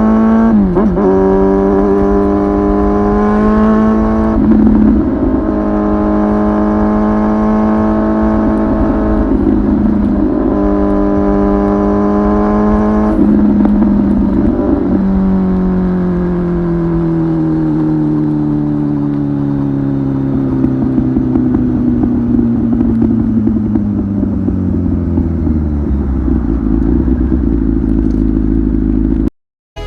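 Kawasaki ZX-10R's inline-four engine through a titanium aftermarket muffler, running at a steady engine speed for about fifteen seconds with a few brief breaks. Its pitch then falls slowly for over ten seconds as the bike slows, and the sound cuts off suddenly near the end.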